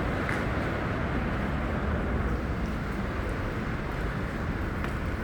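Steady outdoor city noise: a low rumble under an even hiss, with a few faint clicks.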